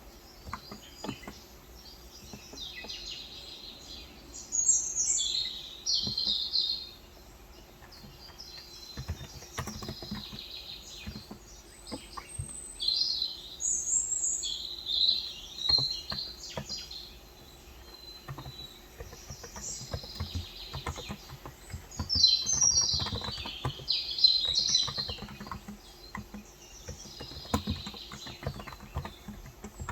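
Birds chirping in several bursts of calls, over the soft, scattered keystrokes of a Cox Endeavor contactless (electrostatic capacitive) 35 g keyboard being typed on.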